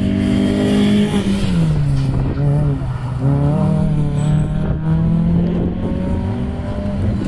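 Mini Cooper R50's 1.6-litre four-cylinder petrol engine driven hard through a slalom course. The revs drop about one and a half seconds in, stay low, then climb again in steps from about three seconds in and hold.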